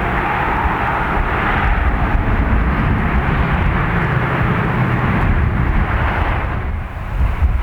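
Mitsubishi CRJ-900LR's twin turbofan engines during departure: a steady jet rush with a deep rumble underneath. The noise drops briefly and changes near the end.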